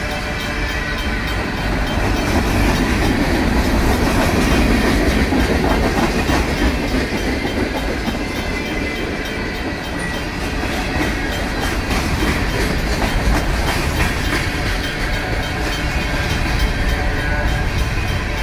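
Freight train cars, tank cars and covered hoppers, rolling steadily past with wheels clacking over the rail joints and a steady rumble. The crossing's RACO mechanical bell rings on top.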